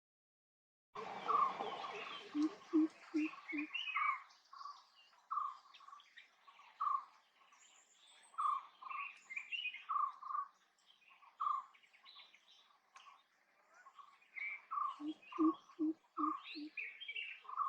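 Greater coucal giving its deep, resonant run of quick 'coop-coop-coop' notes twice. Other birds call around it with repeated clear whistled notes and scattered higher chirps.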